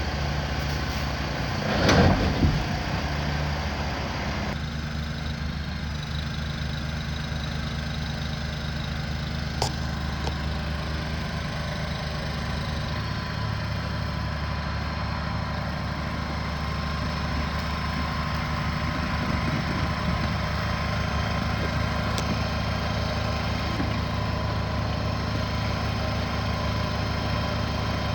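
Engine of a shed-delivery vehicle idling steadily, with a brief louder burst of noise about two seconds in and a single sharp click near ten seconds.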